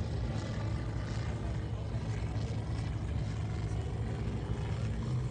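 Engine of a large radio-control model airplane running steadily, a continuous low drone.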